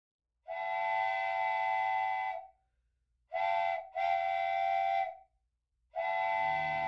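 Multi-tone train whistle sounding four blasts: long, short, long, then another long one that is still going at the end, with dead silence between them.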